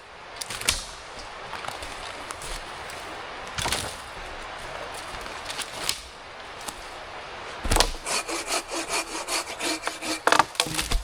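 Hand saw cutting through a branch of firewood: a few scattered knocks and cracks, then from about eight seconds in a run of quick back-and-forth saw strokes, about four a second.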